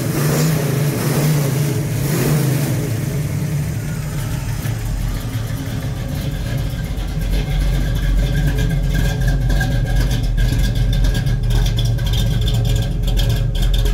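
The 1969 Pontiac GTO Judge's 400 cubic-inch V8 running just after being started, a little higher and noisier for the first couple of seconds before settling into a steady idle.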